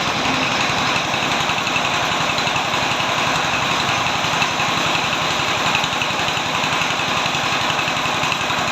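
A truck's diesel engine idling steadily.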